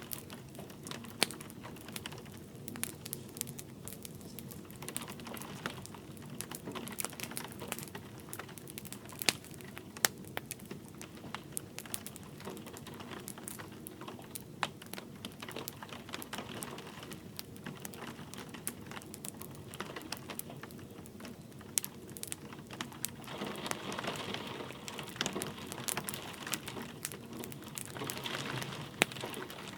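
Wood fire crackling, with frequent sharp pops at irregular intervals, over the soft steady hiss of light rain. The hiss swells a few times near the end.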